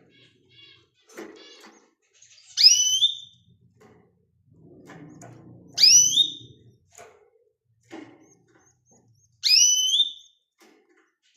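A bird gives three loud, short, rising whistled calls, a few seconds apart, with softer chirps and clicks in between.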